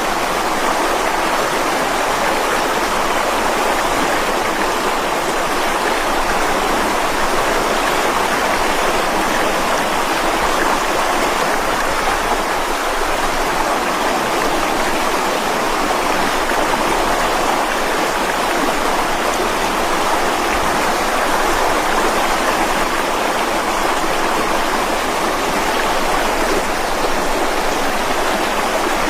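Mountain stream rushing over rocks, a steady, unbroken roar of water with no pauses or changes.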